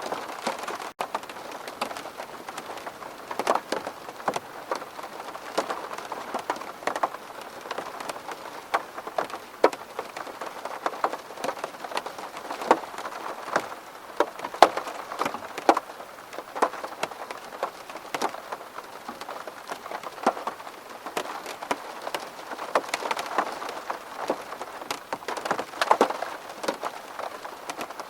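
Rain falling on a window pane: a steady wash of rain with many separate, sharp drop hits on the glass.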